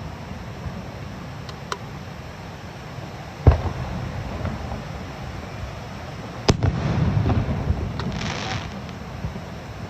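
Aerial fireworks going off: two sharp booms, about 3.5 and 6.5 seconds in, each followed by a rumbling echo, with smaller cracks between and a brief crackling hiss near the end.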